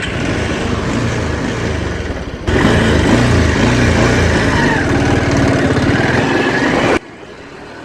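Motorcycle engine running as the bike pulls away and rides. The sound steps up louder about two and a half seconds in and drops off sharply near the end.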